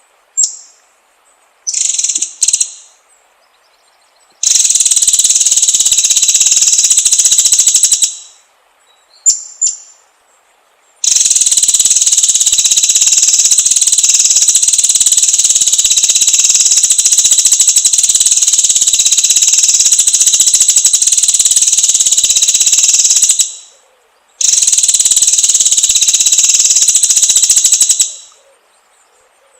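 A shrill, steady buzzing trill in three long stretches, the longest about twelve seconds. Each stretch starts and stops abruptly, and a few short chirps come in the pauses between them.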